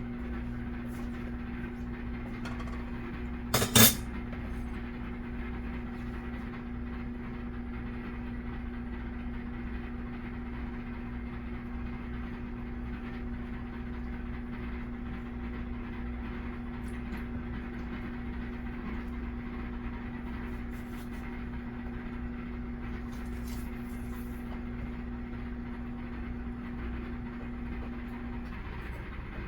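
Microwave oven running with a steady hum that stops shortly before the end. A single sharp clink comes about four seconds in.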